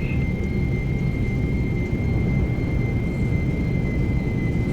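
Jet aircraft engines running: a steady low rumble with a thin high whine held throughout.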